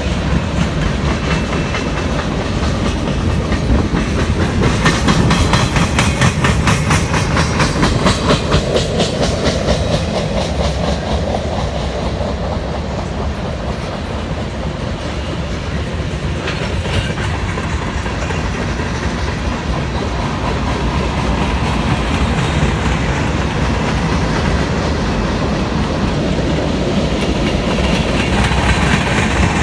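Westbound Norfolk Southern freight train passing close by, a steady heavy rumble of rolling wagons with wheels clicking rapidly over rail joints, the clicking clearest about five seconds in.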